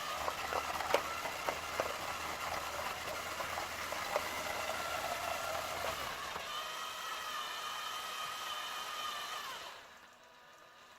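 A small electric motor running with a steady whine, with clicks and knocks over its first half. Its pitch shifts about two-thirds of the way in, and it stops abruptly near the end.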